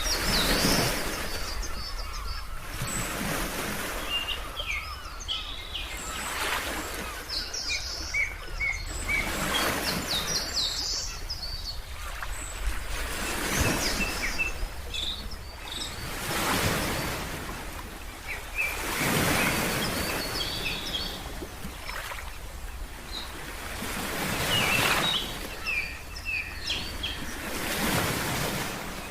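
Ocean surf washing in, a swell of noise every three or four seconds, with small birds chirping in short high calls throughout. A steady low rumble runs underneath.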